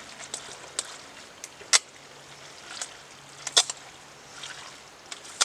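A few sharp, separate clicks and knocks, about five spread over several seconds, from cooking over a campfire, with a faint low hum underneath.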